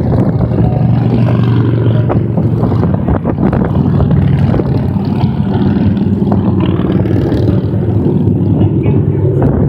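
A steady stream of motorcycles riding past on a highway, many engines running at once in a continuous loud drone.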